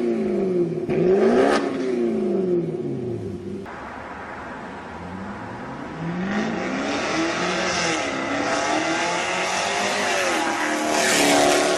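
Supercharged V8 of a BMW Alpina B7 through a Kreissieg F1Sound valved exhaust: revved up and back down about a second in, settling to a quieter idle, then revving again from about six seconds with the pitch climbing and dipping several times.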